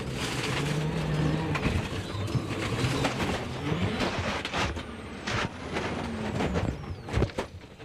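World Rally car engine running hard on a stage, its pitch rising and falling as the driver revs and shifts, under a steady rush of road noise, with several sharp knocks, the loudest near the end.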